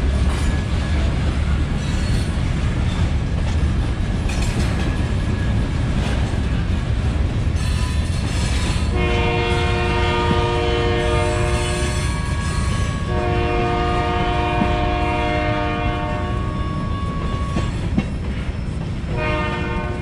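Union Pacific freight cars rumbling and clacking over the rails as they roll through a grade crossing. About nine seconds in, the locomotive's horn blows two long blasts, then a short one near the end, the start of the standard long-long-short-long grade-crossing signal.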